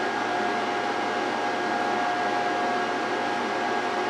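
Steady fan-like whir with a constant hum in it, unchanged throughout.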